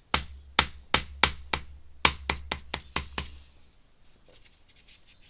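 A quick, uneven run of about eleven sharp taps on a desk, roughly three a second, stopping about three seconds in.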